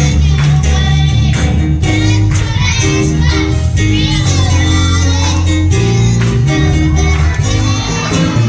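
Live gospel worship song: singing over bass, keyboard and drums, with a steady beat.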